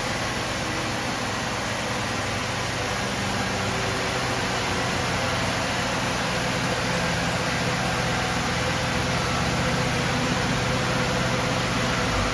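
750 Formula race car engine running at steady revs on a rolling road, under a steady rushing hiss. The low hum drops away near the end.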